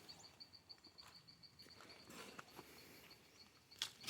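Quiet open-air ambience with an insect chirping steadily in a fast, even pulse, about five or six chirps a second, with faint rustles and a sharp click near the end.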